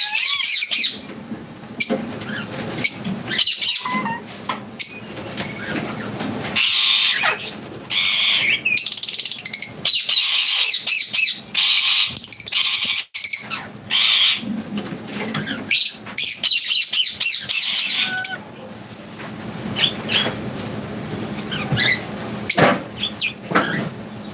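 A group of small cage birds chirping in bursts, with wings flapping and sharp clicks and scrabbling among them.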